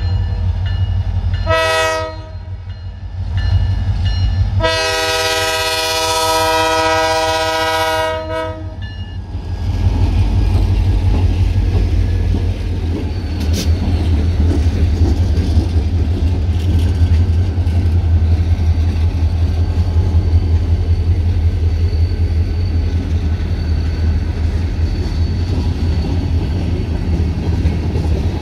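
Diesel freight locomotive's multi-chime air horn sounds a short blast, then a long blast, closing the grade-crossing horn signal. The locomotives' diesel engines then pass close by with a heavy rumble, followed by loaded freight cars rolling past with steady wheel clatter on the rails.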